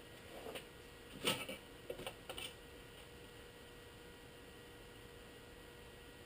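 A handful of short light knocks and clicks in the first couple of seconds over a steady faint hum, the loudest knock a little over a second in.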